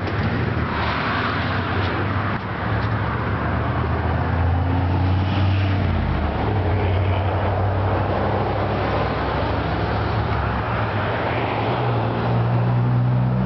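Steady motor-vehicle noise: engine hum and road noise, with the low engine pitch shifting twice, about halfway through and again near the end.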